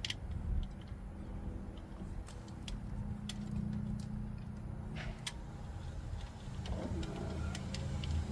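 Scattered light metallic clicks and ticks of nuts being handled and started onto the brake booster studs, over a steady low rumble.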